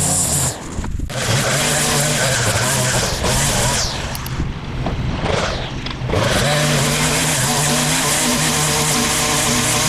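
Engine of powered mowing or brush-clearing equipment running steadily, with abrupt breaks and changes near the start and around the middle.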